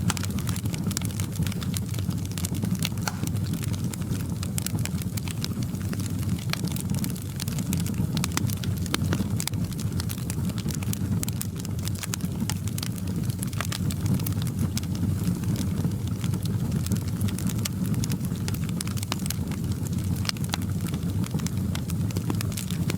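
Crackling fireplace: a steady low rumble of the fire with frequent, irregular sharp crackles and pops.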